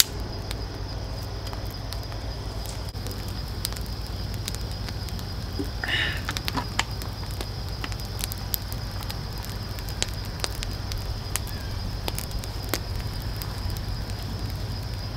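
Wood campfire burning and crackling, with scattered sharp pops over a steady low rumble.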